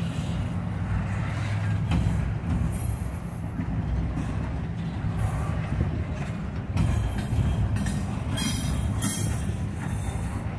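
Double-stack intermodal freight train's well cars rolling past: a steady low rumble of steel wheels on the rail.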